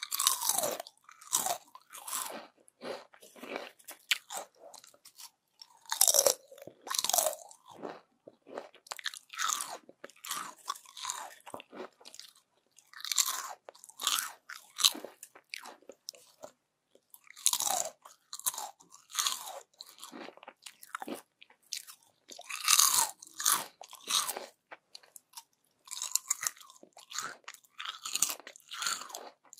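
Crispy yam chips being bitten and chewed: a loud crunch every few seconds, each followed by a run of smaller crunching chews.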